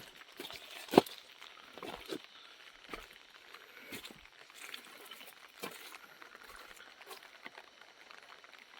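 Footsteps of someone walking, short thuds about once a second, over a faint background hiss.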